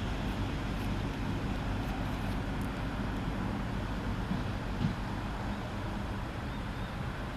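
Class 139 Parry People Mover flywheel railcar pulling away, a steady low hum of its running gear and engine under general rail noise, slowly getting quieter.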